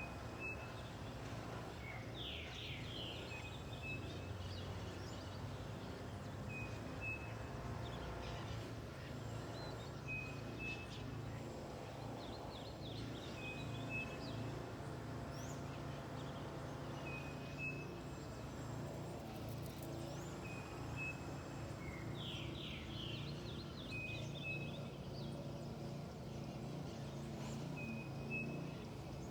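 Birds calling over a steady low background rumble: a short high note repeated every two to three seconds, and twice a fast run of falling notes.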